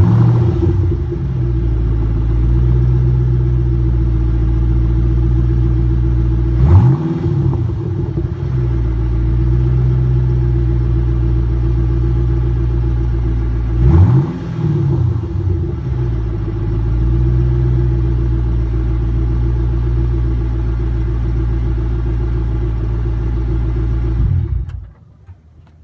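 2009 Mustang GT's 4.6-litre V8 idling through its exhaust, blipped three times, about seven seconds apart, each a quick rev that rises and falls back to idle. The engine is shut off near the end.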